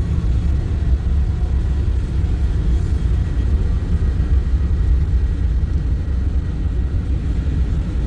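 Deep, steady rumble of a heavily powered diesel freight train's locomotives working past.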